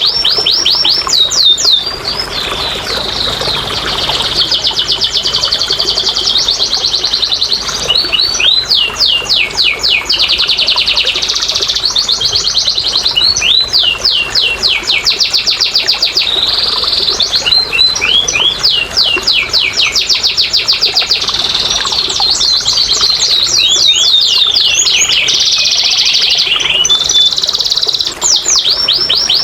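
Domestic canary singing a long, unbroken song of rapid trills and repeated chirps, changing phrase every second or two.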